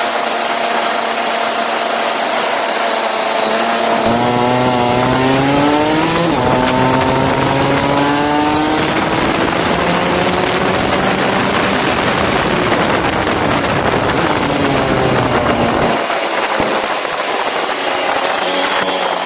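Go-kart engine running at speed with a steady note. About four seconds in, the note climbs twice as the kart accelerates. A rushing noise then covers it for several seconds, and the steady note returns near the end.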